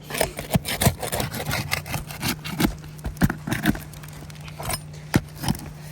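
Asphalt roof shingles being pried and worked loose by hand: irregular scraping, crackling and sharp clicks as the sealed shingle tabs are pulled apart, busy for the first few seconds, then a few scattered knocks.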